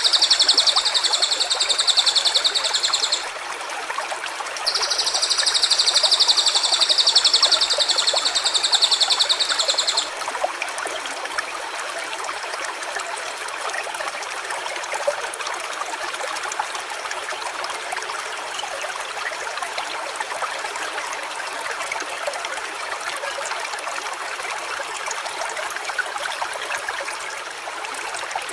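A stream running steadily over rocks. Over it come two long, high buzzing trills, each about five seconds with a short pause between, ending about ten seconds in.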